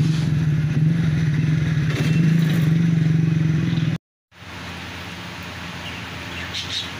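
A motor vehicle's engine running steadily close by with a low hum, cutting off suddenly about four seconds in; quieter outdoor market background follows.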